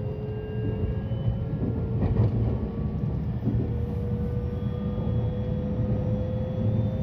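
JR West 223 series 2000 electric train running, with a steady rumble of wheels on rails and a single tone that rises slowly in pitch: the traction motor whine as the train gathers speed.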